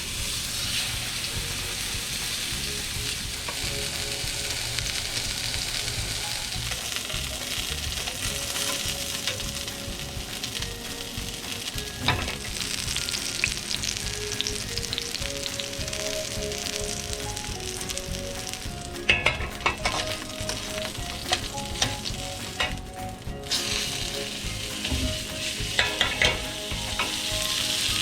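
Steak sizzling and frying steadily in an iron frying pan, with a few sharp clicks of a utensil against the pan.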